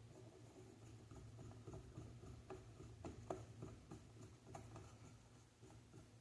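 Faint, scattered light clicks and taps of small console parts being handled over a low steady hum.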